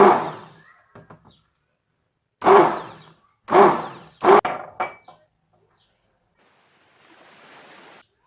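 A few loud household knocks or thuds, four in all, each fading over about half a second, followed near the end by about a second of soft hiss.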